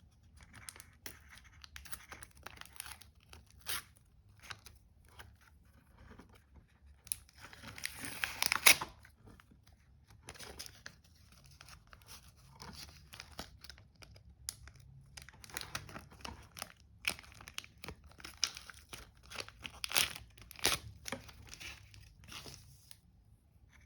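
A Panini sticker packet being torn open by hand: its wrapper crinkles and crackles in short irregular bursts, with one longer, louder tear about eight seconds in.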